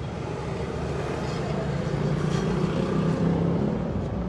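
A motor vehicle engine running steadily, a low hum that grows a little louder partway through.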